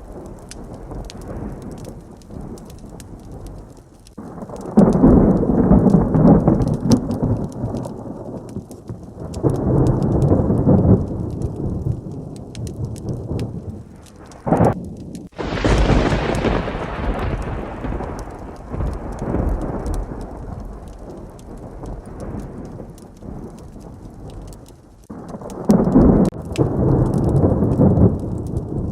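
Heavy rain falling steadily, with thunder rolling over it. Several deep rumbles swell and fade, a sharp close thunderclap cracks about halfway through and dies away over a few seconds, and another rumble comes near the end.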